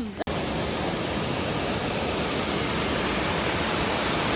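Steady rushing of a waterfall, an even noise that starts abruptly at a cut just after the start and holds level.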